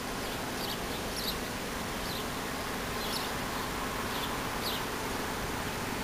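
Small birds chirping faintly outdoors: short high chirps roughly once a second, irregularly spaced, over a steady hiss.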